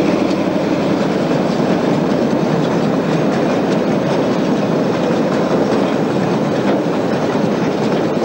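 The Ghan passenger train running along the line: a steady rolling rumble of the wheels on the rails, with faint scattered clicks.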